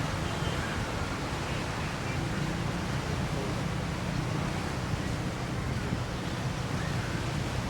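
Steady rushing noise of surf and wind, with wind rumbling on the microphone.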